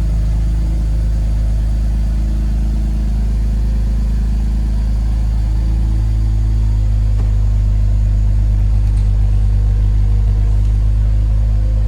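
BMW 330Ci ZHP's 3.0-litre inline-six idling steadily, its note changing slightly about six seconds in.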